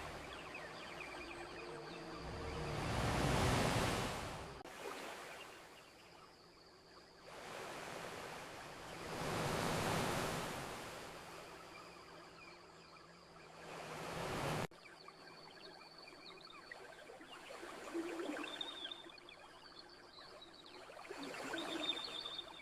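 Ocean waves breaking and washing up a beach, swelling twice in the first half. About two-thirds of the way through the sound cuts off abruptly, leaving a quieter background with faint high chirps.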